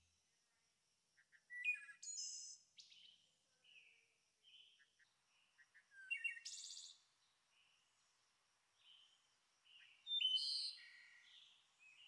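Small birds chirping and singing: scattered short high calls and quick rising and falling whistles, with louder phrases about 2, 6 and 10 seconds in.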